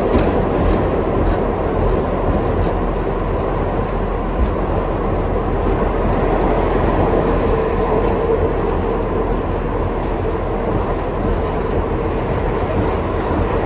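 Kawasaki R62 subway car in motion, heard on board: a steady rumble of wheels on rail with a constant tone in it and a few faint clicks from the track.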